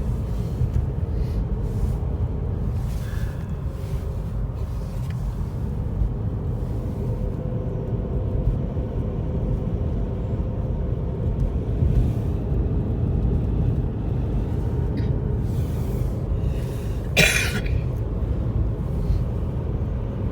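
Steady low road and engine rumble heard inside a car's cabin while driving on a snowy road, with a few faint clicks. A brief sharp noise stands out about seventeen seconds in.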